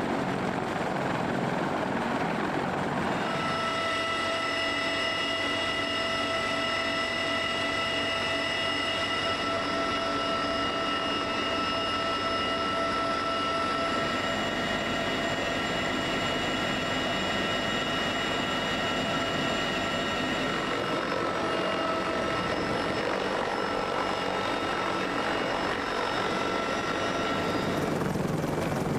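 Large military transport helicopter running: steady rotor and engine noise with a high turbine whine that sets in a few seconds in and fades near the end.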